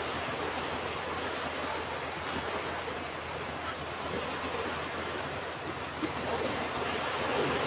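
Ocean waves breaking and washing onto a beach: a steady rush of surf that swells a little near the end.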